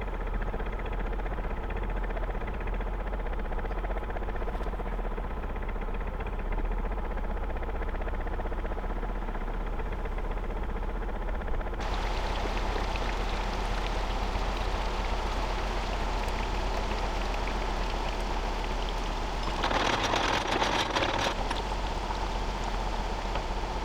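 Gardner 2LW two-cylinder diesel of a narrowboat running at a steady speed. About halfway through, a steady hiss rises over it, and a louder rushing patch lasts a second or two near the end.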